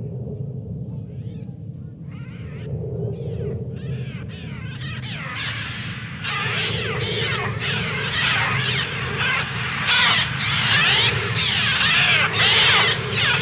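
A flock of gulls screeching, the cries sparse at first and swelling into a dense, loud mass of overlapping calls from about halfway through, over a low steady rumble. This is the film's bird-attack sound effect.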